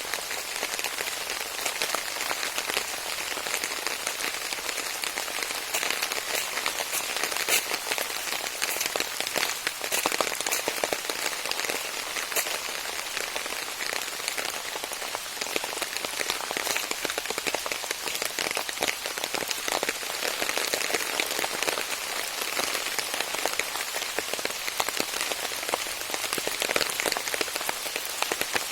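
Steady rain falling, with a dense patter of individual drops tapping.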